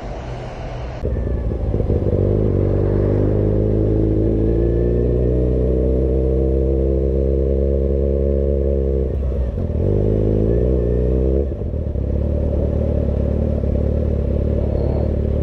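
Motorcycle engine running under way, its pitch climbing slowly for several seconds, then dropping away and faltering briefly about nine seconds in before settling into a steady run again.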